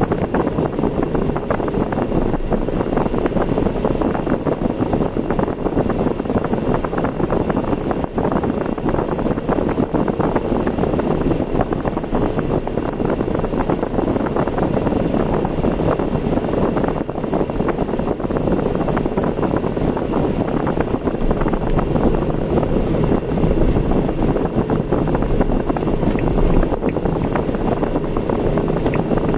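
Steady road and wind noise of a car driving, with no changes or distinct events.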